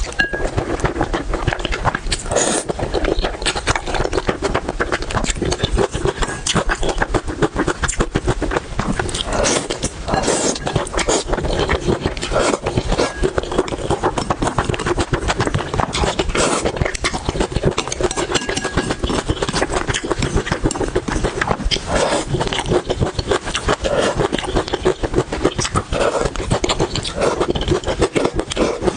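Eating sounds: food being chewed, a steady run of fast, wet clicks and crunches.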